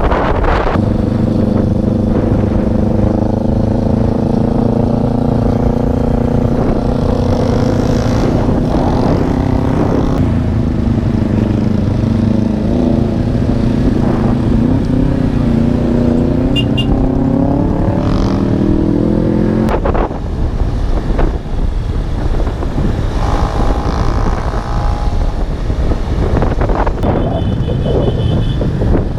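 Motorcycle engine running on the move with wind on the microphone, its pitch shifting and climbing as it accelerates. About two-thirds of the way through, the sound cuts abruptly to a noisier mix of engine and wind.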